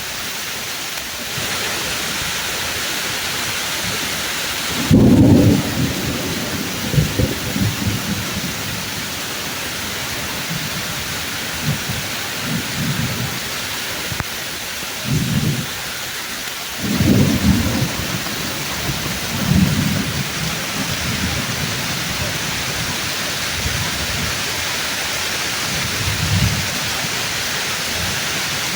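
Steady heavy rain pouring down through the leaves of trees, with thunder rolling again and again beneath it. A sharp thunderclap about five seconds in is the loudest; it is followed by several shorter low rumbles spread through the rest of the stretch.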